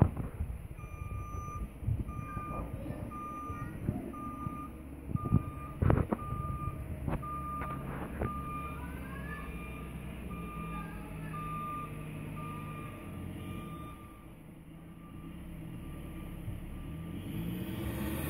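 Snow plow's reversing alarm beeping in a steady, evenly spaced series over its diesel engine's low rumble as it backs up, with a few loud knocks from the machine; the beeping stops about two thirds of the way through.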